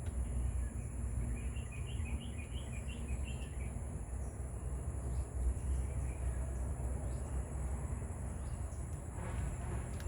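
Outdoor rural ambience: a steady high insect drone with a low rumble beneath it, and a bird giving a quick run of chirps about two seconds in.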